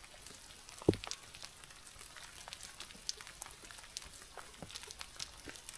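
Light rain falling, a fine crackle of scattered drops ticking close by, with one louder drop or knock about a second in.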